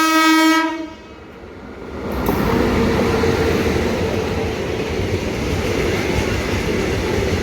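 Indian Railways train horn sounding one held note, cutting off about a second in, followed by the steady rumble of the train.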